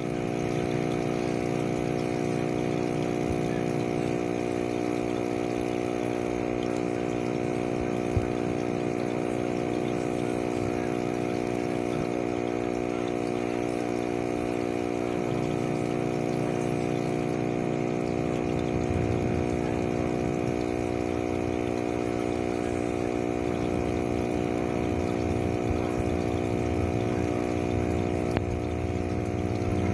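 Steady machine hum, even and unchanging throughout.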